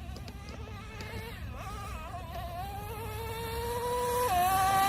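Traxxas Revo 3.3 nitro RC truck's small two-stroke glow engine buzzing at high revs. Its pitch climbs and then drops sharply about four seconds in, as the two-speed transmission shifts up. It grows louder as the truck comes closer.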